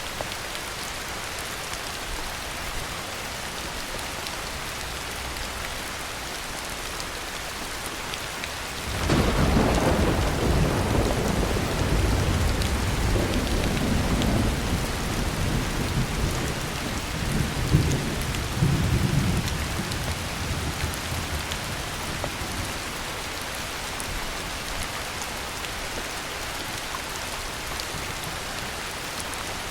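Steady heavy rain with a thunderclap: about a third of the way in a loud rolling rumble starts suddenly, swells in several peaks for about ten seconds, then dies away under the rain.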